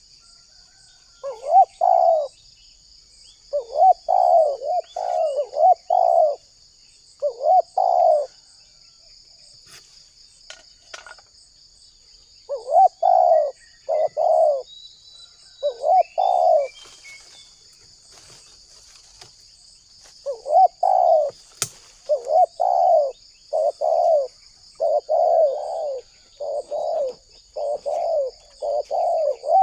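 Spotted dove (tekukur) cooing: phrases of short hooting notes broken by pauses, then a long unbroken run of coos from about two-thirds of the way in.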